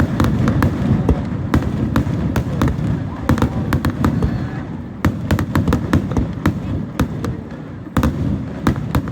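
Aerial fireworks going off: a dense low rumble of booms with many sharp crackles and pops in irregular quick succession, and a fresh loud burst about eight seconds in.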